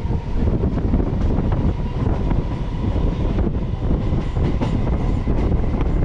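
Electric multiple-unit (EMU) local train running at speed, heard from its open doorway: a steady rumble of wheels on rail with frequent irregular clicks and rattles. A faint steady whine runs underneath.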